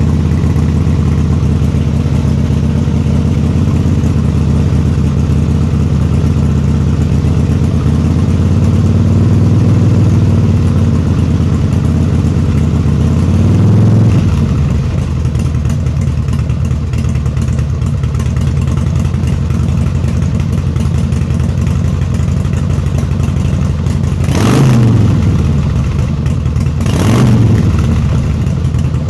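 Harley-Davidson FXSTDSE2's V-twin engine idling, with its revs rising a little about a third of the way in and three short throttle blips, two of them close together near the end.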